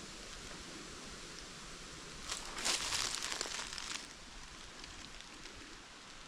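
Footsteps crunching and rustling through dry leaf litter, loudest from about two to four seconds in, over a faint steady hiss.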